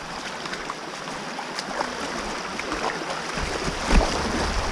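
Rushing water of a storm-swollen stream: a steady hiss with a few light clicks, and a low rumble coming in during the second half.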